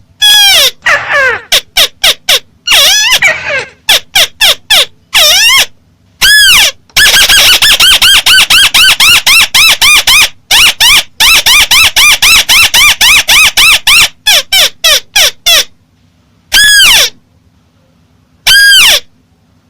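Volume-boosted recording of the chim mắt xéo bird calling: loud runs of short, rising-then-falling squawky notes, very rapid in the middle, about four or five a second, broken by short silent pauses near the end.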